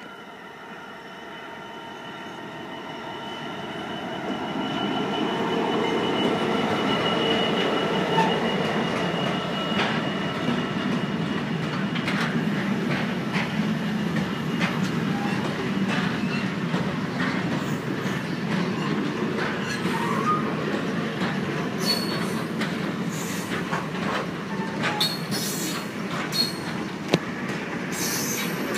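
Class 66 diesel locomotive 66751 and its train approaching and passing over a level crossing. The sound builds over the first five seconds into a steady rumble of wagons with high wheel squeal and scattered clicks of wheels over rail joints.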